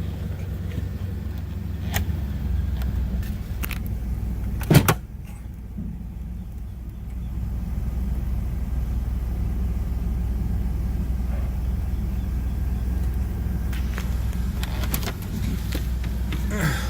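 2003 Chevy Astro van's 4.3-litre V6 idling steadily with the air conditioning running, a low steady hum. A single loud thump comes about five seconds in, and the sound is briefly quieter for a couple of seconds after it.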